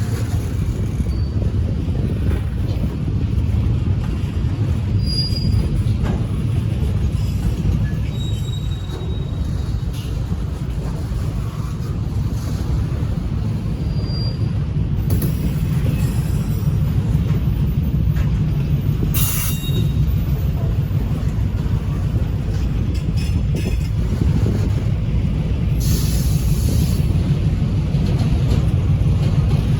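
EMD MP15DC diesel switcher locomotive, a 12-cylinder EMD 645 engine, running steadily as the freight cars roll by, with a few brief high wheel squeals.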